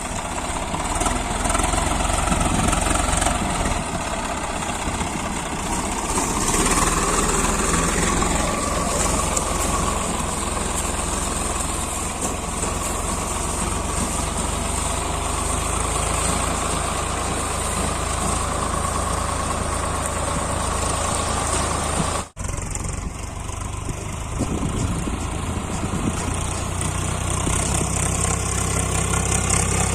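Swaraj 855 FE tractor's three-cylinder diesel engine running steadily. The sound cuts out for an instant about three-quarters of the way through, then carries on.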